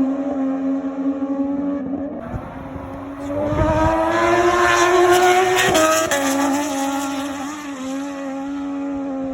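Racing motorcycle engines at high revs on the track. One grows louder with its pitch rising from about 3 s in, then its pitch drops suddenly near 6 s as it fades back into the steady engine note.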